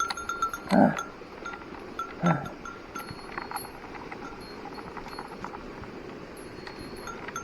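A small bell, a walker's bear bell, tinkling in short repeated rings with the steps. Two heavier thuds, like footfalls or knocks on rock, come about a second in and again a little over two seconds in; they are the loudest sounds.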